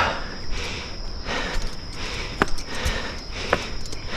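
Hard breathing of a hiker on a long uphill climb, with a couple of sharp footstep clicks, over a steady high insect drone.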